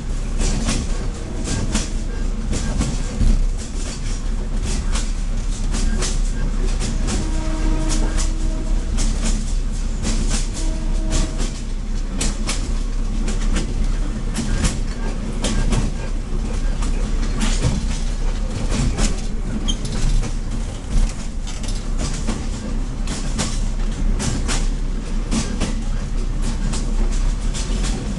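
Diesel railcar running along jointed track: a steady low rumble of engine and wheels with frequent sharp clicks as the wheels cross rail joints.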